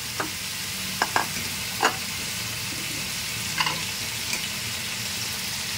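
Whole crabs sizzling in hot oil and fried curry paste in a wok, a steady frying hiss. Several short sharp clinks come as they are stirred.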